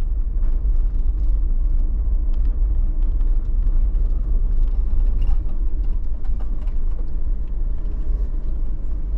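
A motor vehicle driving, with a steady low rumble of engine and road noise that cuts in abruptly.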